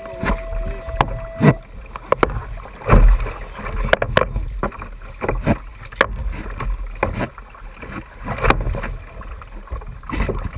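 Water slapping and knocking against a fishing kayak's hull on open sea, with irregular knocks and splashes over a steady low rumble. A brief steady tone sounds during the first second or so.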